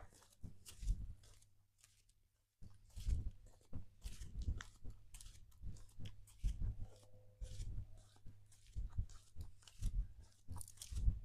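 Footsteps crunching on a trail at a walking pace, about two steps a second, with a short pause about two seconds in.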